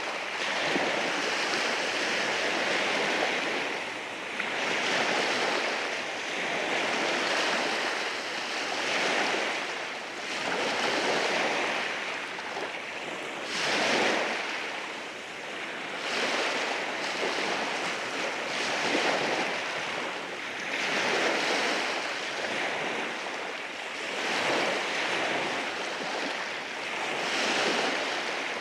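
Sea waves rolling in and washing over rocks on a rocky shore, the surf swelling and ebbing every few seconds, with one sharper, louder crash about halfway through.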